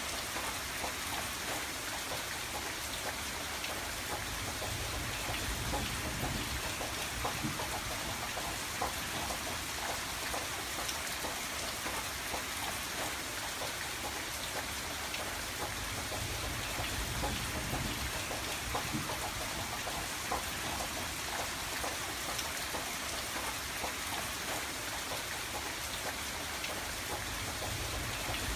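Steady rain falling on a window, a dense patter of drops with a soft low rumble that swells and fades.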